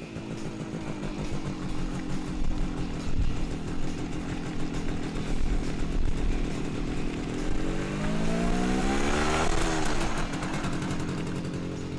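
MZ ETZ 150's single-cylinder two-stroke engine running on the road: a steady note at first, then the revs climb for about two seconds and the pitch drops sharply about nine and a half seconds in, at the loudest point.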